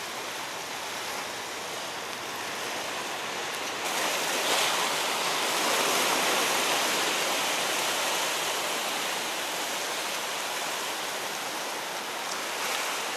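Sea waves washing over shore rocks, a steady rush that swells about four seconds in and slowly eases off.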